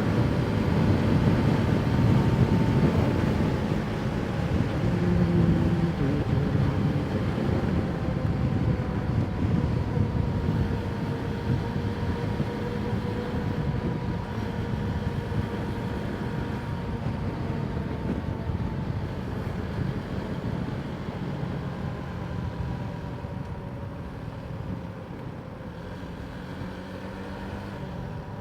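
Motorcycle engine running at a steady cruise, mixed with wind and road rush, heard from a mic inside the rider's helmet. The engine note drifts slowly in pitch, and the overall sound eases off gradually over the second half.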